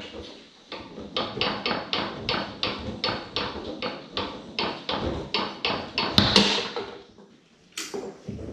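Foosball played on a Tornado table: the ball being tapped and passed by the hard figures on the rods, a rapid run of sharp clacks at about three to four a second, with a louder hard strike about six seconds in and one more knock near the end.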